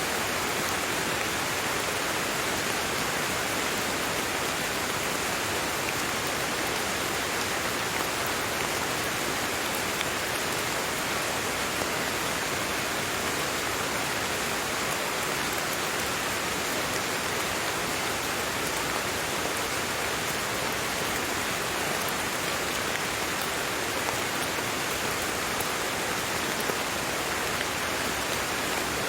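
Steady rain falling, with a dense patter of small drop ticks over an even hiss.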